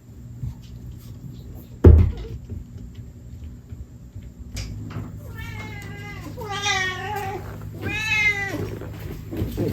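A domestic cat meowing twice: a long, wavering meow about halfway through and a second, shorter one soon after. Earlier, a single sharp knock, the loudest sound here.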